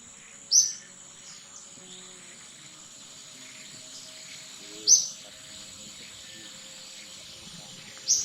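Outdoor animal sounds: three short, loud, high chirps about four seconds apart over a steady high-pitched insect drone.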